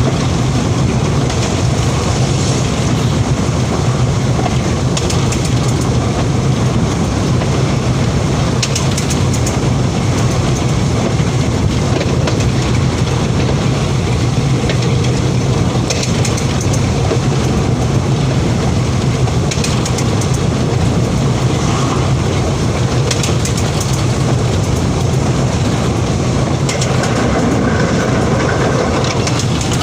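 Train running along the track, heard from on board: a steady loud rumble with a low drone, and brief high rattles every few seconds.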